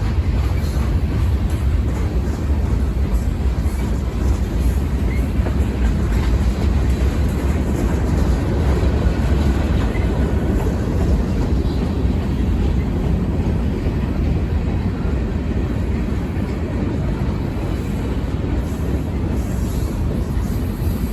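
Freight train rolling past: a steady low rumble of railcars on the track.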